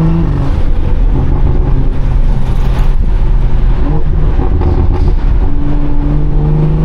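BMW 340i's turbocharged 3.0-litre straight-six running through a catless downpipe and valved aftermarket exhaust while driving, heard loudly from inside the car. It holds a steady note at first, goes rougher and choppier through the middle, and settles back to a steady held note near the end.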